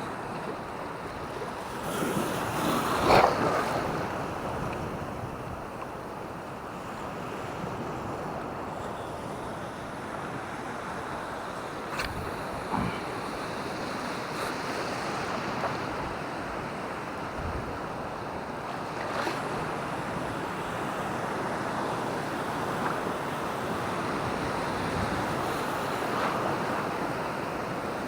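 Surf washing on a beach, with wind on the microphone; a louder wave surges about two to three seconds in, and a single sharp click comes near the middle.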